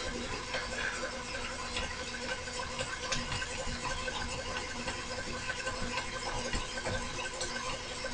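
A steady machine hum with faint, scattered ticks and scrapes of hand work at a workbench.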